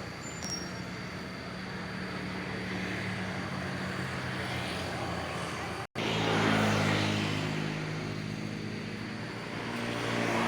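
A motor vehicle engine running steadily. The sound cuts out for an instant about six seconds in; after that the engine is louder, and a vehicle passes near the end.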